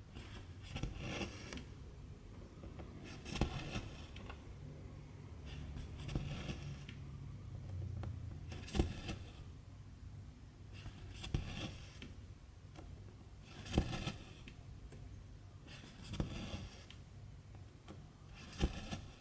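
Needle and silk thread pulled through cross-stitch fabric, over and over: a sharp click followed by a short rasping swish of thread drawn through the cloth, eight times, about every two and a half seconds.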